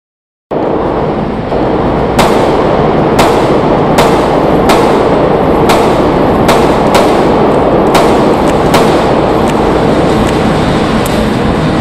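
Handguns fired at a range in rapid, overlapping multiples, running together into a dense, continuous crackle. Sharper single shots stand out about once a second, and it all begins after half a second of silence.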